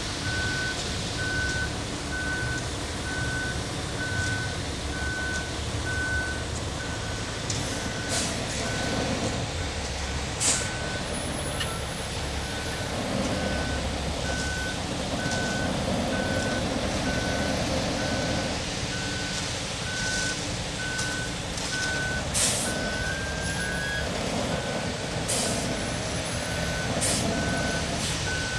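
Concrete mixer truck with its backup alarm beeping steadily, a little faster than once a second, over the steady running of its diesel engine, with a few sharp knocks.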